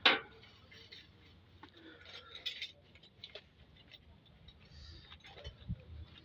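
Clicks and light metallic clinks of tools and engine parts being handled, with one sharp knock at the start.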